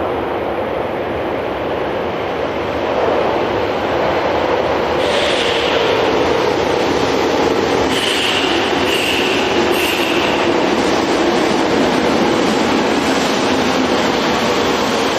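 Tokyo Metro 5000-series subway train running, a steady rumble that grows louder a few seconds in. A brief high squeal comes about five seconds in, then three more short squeals around eight to ten seconds in.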